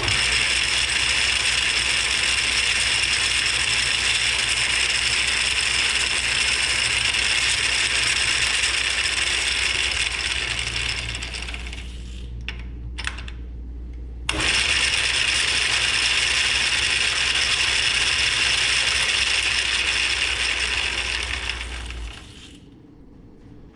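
Atlas 10F lathe's change-gear train running with the QC42 gearbox disengaged, a loud, steady gear clatter and rattle. The gears are worn and ride on worn shafts and bushings, which leaves a lot of slop. The noise stops about twelve seconds in, starts again about two seconds later, and dies away near the end.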